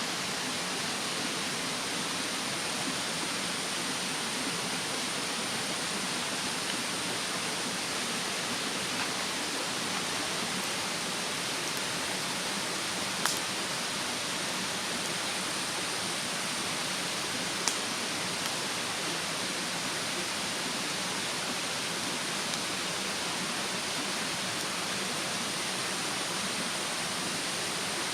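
Campfire in a fire stand with a steady rush of a mountain stream behind it, and two sharp crackling pops from the burning wood, about 13 and 17 seconds in.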